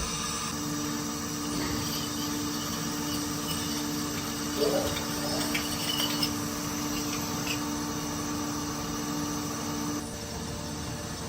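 Mazak Integrex 400-III S turn-mill centre running, with a steady hum and a sound of flowing, splashing liquid such as coolant. One steady tone in the hum starts just after the beginning and stops about ten seconds in, and a few light clicks come in the middle.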